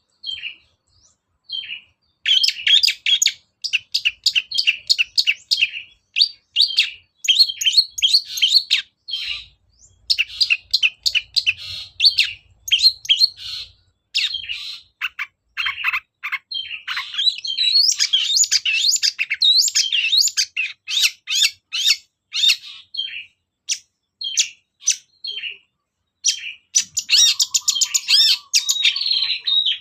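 Long-tailed shrike singing a fast, chattering song of rapid chirps and trills in bursts with short pauses, after a few scattered notes at the start.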